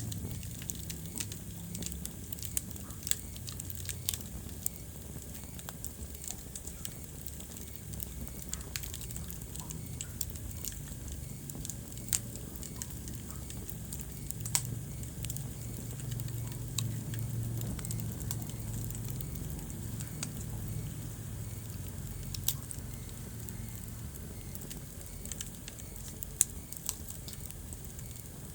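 Wood fire crackling in a fireplace: frequent irregular sharp pops and snaps over a low, steady rumble of the flames.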